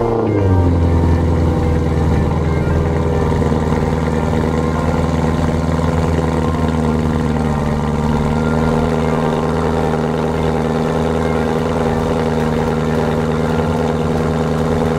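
E92 BMW M3's 4.0-litre V8 just after a cold start, heard at the quad exhaust: the revs drop from the start-up flare in the first half-second, then the engine settles into a steady fast idle.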